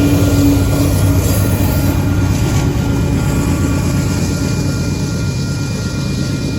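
Loaded coal train rolling past, with the diesel drone of the rear distributed-power locomotive fading over the first two seconds. Steady wheel-on-rail rumble with faint ringing tones carries on, slowly getting quieter.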